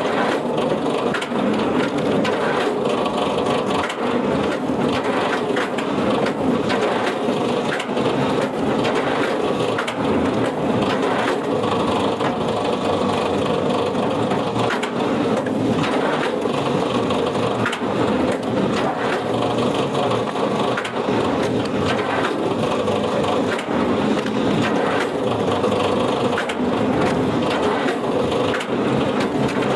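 Wood-processing machinery working without pause: a continuous crunching of wood with scattered sharp cracks.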